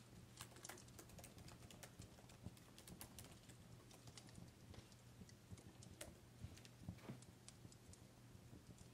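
Fireplace crackling, faint: irregular small pops and snaps over a low steady hum.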